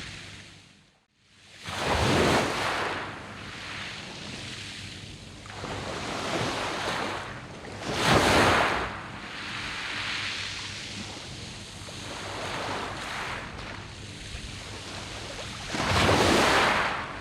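Sea waves breaking and washing back over a beach of round pebbles, surging three times. The sound drops almost to silence for a moment about a second in.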